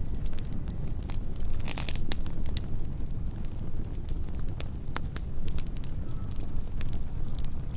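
Wood campfire crackling and popping with frequent sharp snaps over a low steady rumble of burning. A cricket chirps briefly about once a second in the background.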